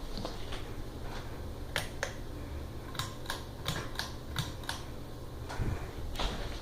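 Harbor Breeze Barnstaple Bay ceiling fan running with a steady low hum. Over it comes a run of sharp, irregular clicks from about two seconds in, with a few more near the end.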